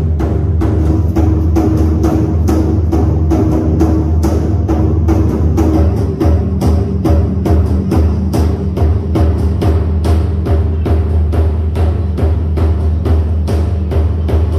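Drumming at a temple aarti: a rapid, even drumbeat of about four strokes a second over a steady low drone.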